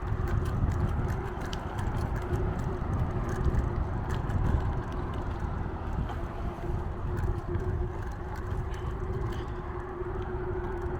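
Riding noise from a moving bicycle: steady wind and road rumble, with a faint steady hum and scattered light ticks.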